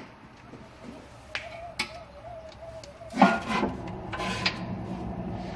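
Wood fire burning in a wood stove, with a few sharp pops, then a louder scraping, rattling burst a little past halfway.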